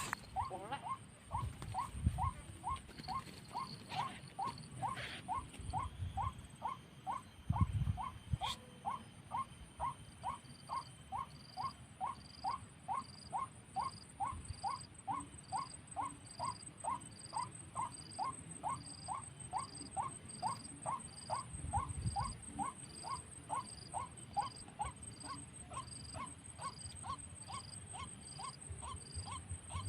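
White-breasted waterhen call, the same short note repeated monotonously about twice a second, fading near the end. A few low rumbles of wind on the microphone.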